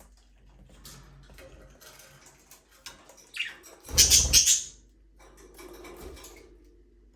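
Pet budgerigars chirping and chattering faintly, with a short high call a little over three seconds in. About four seconds in comes a loud burst of under a second with a low thump in it, the loudest sound here.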